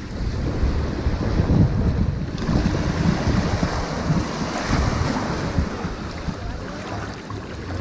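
Ocean surf washing onto a sandy beach, a continuous rush of waves with a deep rumble, swelling to a brighter hiss midway and easing off near the end. Wind buffets the microphone.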